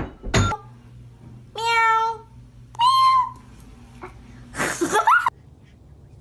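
A cat meowing three times, each call under a second long, the last one rougher and rising in pitch at its end. A short knock comes just before the first meow.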